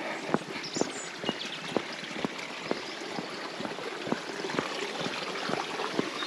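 Walking footsteps at a steady pace, about two steps a second, over a steady rushing sound like running water. A bird chirps briefly about a second in.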